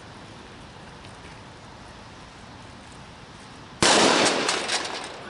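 A Cobra firecracker exploding with one sharp, very loud bang about four seconds in, followed by a crackling, fading tail of about a second and a half.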